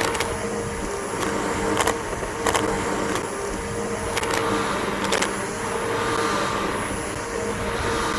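Bissell BigGreen PowerForce upright vacuum cleaner's motor running steadily, sucking across grass. A handful of sharp clicks and ticks come at irregular moments over the top.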